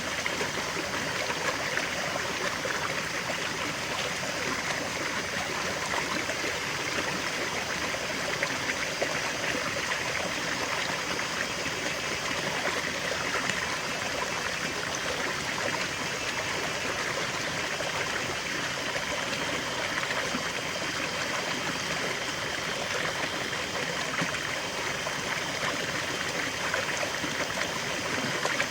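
River water flowing steadily, a continuous babbling rush with a fine trickling texture.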